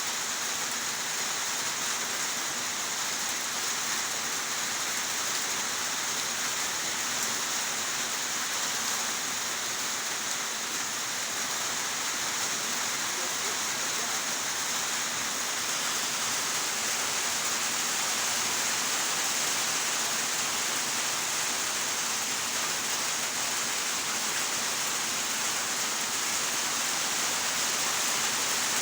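Steady heavy rain falling, an even hiss with no single drops standing out.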